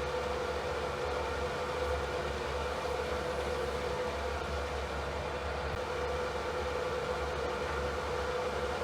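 Steady electric fan noise: an even, unchanging rush of air with a steady hum and a low rumble underneath.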